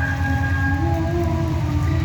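Diesel locomotive of a Babaranjang coal train approaching a level crossing, its engine throbbing low and growing slightly louder, with several held, wavering tones above it.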